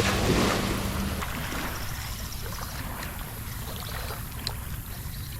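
Low steady drone of a passing cargo ship on the river, with wake waves washing against the bank; one wave surges in the first second.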